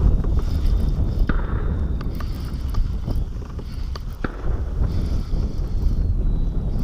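Wind buffeting the microphone as a steady low rumble, with a few sharp clicks and taps scattered through it.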